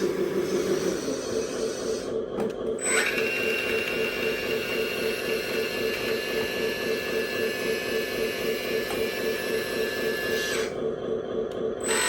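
Hydraulic pump of an RC model roll-on/off dumper truck running steadily with a fast, even pulsing whine. About three seconds in, a higher whine joins it and holds until shortly before the end.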